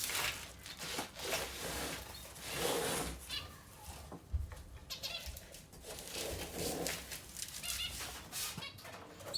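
Zebra finches giving short nasal calls, several times, over repeated rustling and scraping noises.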